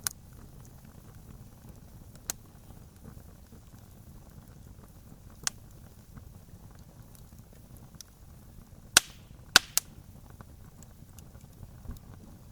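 Campfire crackling: a low steady rumble of burning wood with sharp pops from the burning wood every few seconds, and three loud pops in quick succession about nine seconds in.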